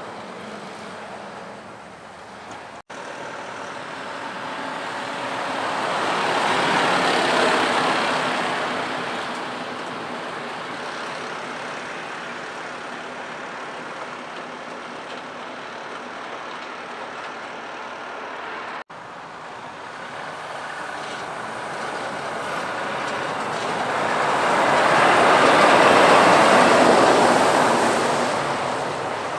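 Road traffic: trucks passing close by over a steady road hum, one swelling up and fading about seven seconds in and a louder one near the end. The sound cuts out for an instant twice.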